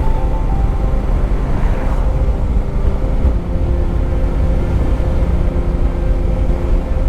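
Motorcycle engine running steadily while riding, with heavy low rumble.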